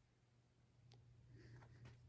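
Near silence: a faint steady low hum from a ceiling fan motor running on its lowest speed, with a few faint ticks.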